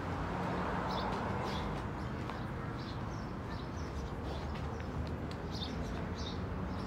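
Faint, short bird chirps repeated every second or so over a steady outdoor background hum.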